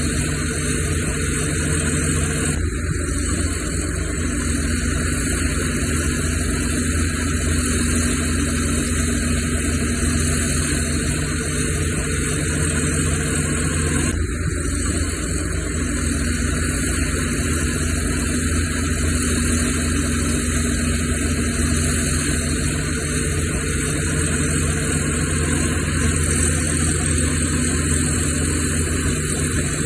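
Diesel engine of heavy earth-moving equipment running steadily, with the sound shifting abruptly twice, about three and fourteen seconds in.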